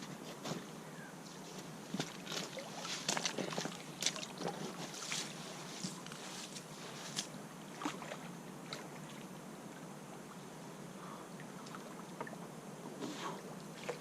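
Irregular splashes and knocks of water and handling at the river's edge, most frequent in the first half, over a steady background of wind and river noise.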